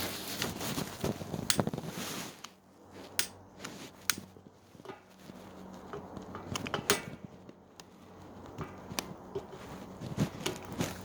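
Handling noise from the phone that is recording, as it is shifted and set down: scattered clicks, knocks and rubbing, over a faint low hum.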